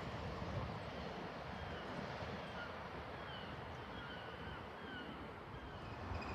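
Faint low rumble of a distant train approaching, under quiet open-air ambience, with a bird giving a series of short high chirps through the middle.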